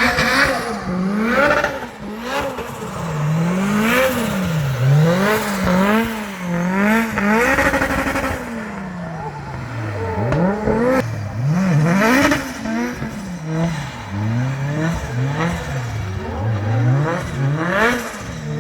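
Drift car engine revving up and down again and again, its pitch rising and falling every second or so.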